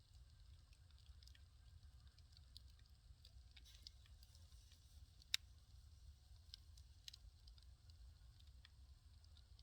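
Firewood burning, crackling with scattered small pops and one sharp, louder crack about halfway through, over a faint low rumble.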